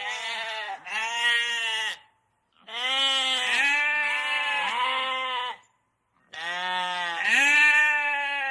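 Sheep bleating: a series of long, quavering bleats with short silent pauses between them.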